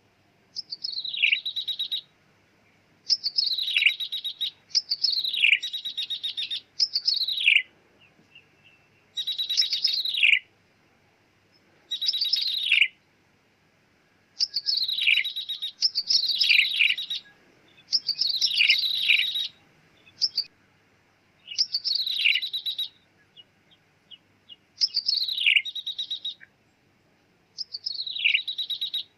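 A ciblek tebu (a prinia) calls in repeated phrases of one to one and a half seconds. Each phrase is a rapid downward-sweeping, buzzy trill, about a dozen of them with short pauses between. This is a recorded lure call of the kind played to attract wild prinias.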